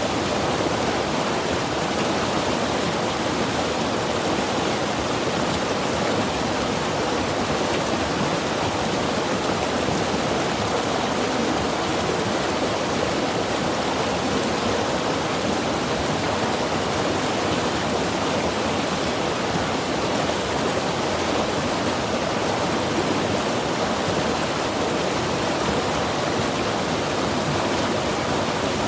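Mountain river rushing over rocks, a steady full water noise that holds even throughout.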